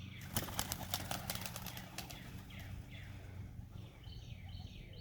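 Pigeons' wings clattering in a quick run of flaps over the first couple of seconds as birds take off around the loft. Short falling chirping calls repeat through it.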